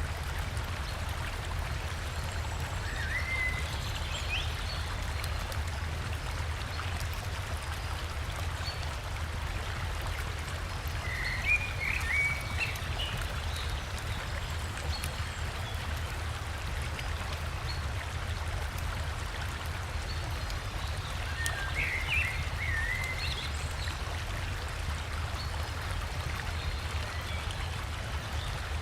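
Steady rush of flowing river water, with a songbird singing short chirping phrases three times, each a few seconds apart.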